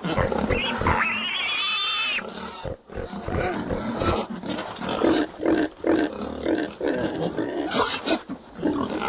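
Pig grunting over and over in short pulses, a few a second, with one high, drawn-out call about a second in.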